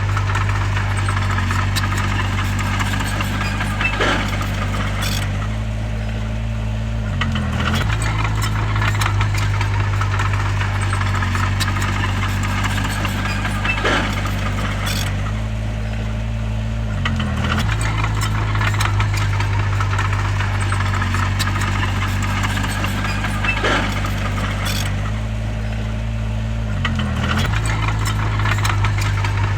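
Bulldozer's diesel engine running steadily under work, with a rattle. About every ten seconds a sharp clank sounds, and a few seconds later the engine note dips briefly and recovers as the load changes.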